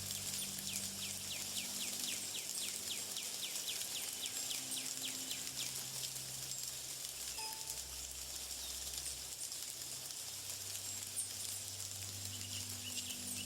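Soft sustained low music notes that change in slow steps, under nature sounds: a steady high hiss, a rapid trill of short high chirps in the first three seconds, and a few scattered chirps near the end.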